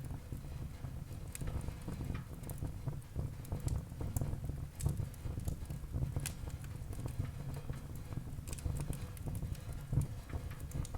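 Wood fire burning in a fireplace: a steady low rumble of flames with irregular crackling and several sharp pops.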